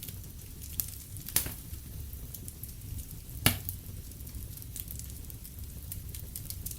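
Wood fire in a fireplace crackling over a steady low rumble, with a few sharp pops, the loudest about halfway through.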